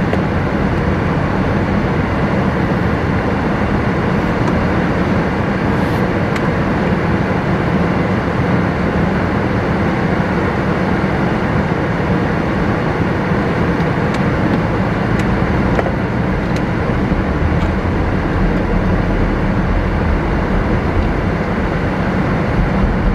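Steady road and wind noise of a car driving along.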